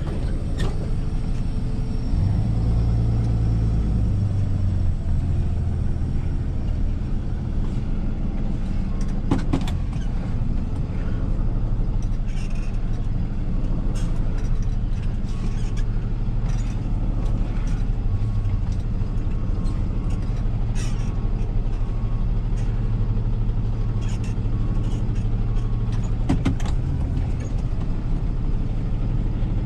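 Rollback tow truck's engine running steadily while the truck is maneuvered, revving up for a few seconds about two seconds in, with occasional light clicks.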